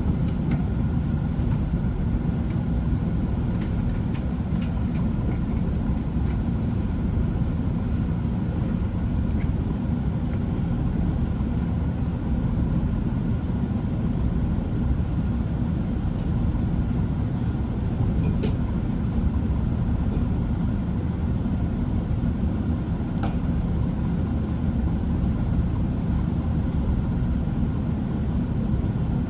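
Class 165 diesel multiple unit standing at its terminus with its diesel engines idling: a steady low rumble with a faint whine above it and a few light ticks.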